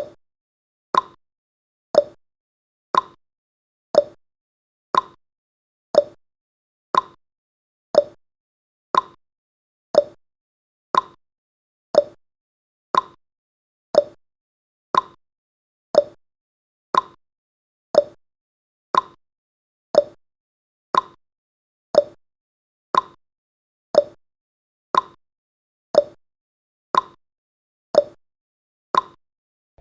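Countdown timer's ticking sound effect, one short sharp tick each second, evenly spaced, as the last thirty seconds count down.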